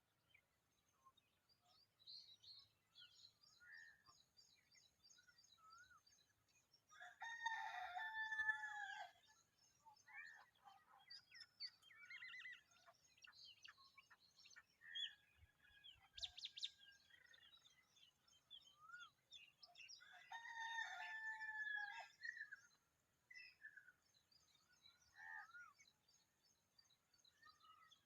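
Small birds chirping and twittering in short, scattered notes, with a rooster crowing twice, each crow about two seconds long.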